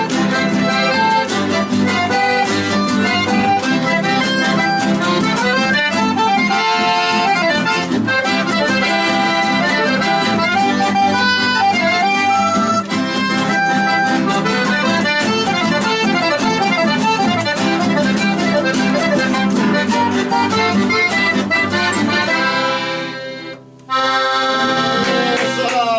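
A chamamé played live on accordion with guitar accompaniment. The tune breaks off briefly near the end and closes on a final chord.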